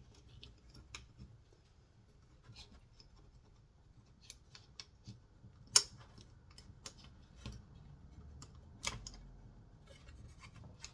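Scattered light clicks and taps from a chainsaw's recoil starter being handled, its rope pulley turned by hand to put tension on the rewind spring. Two sharper clicks stand out, about six and nine seconds in.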